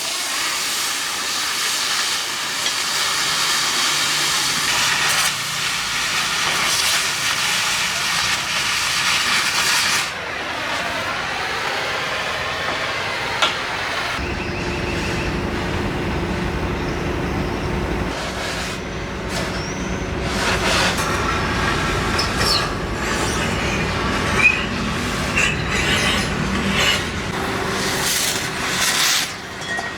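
Gas cutting torch cutting steel with a steady loud hiss. About halfway through a deeper rumble with a steady hum joins it, and a few short sharp cracks come from the cut.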